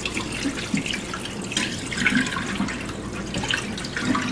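Kitchen tap running into a sink, with the water splashing unevenly and small clatters mixed in.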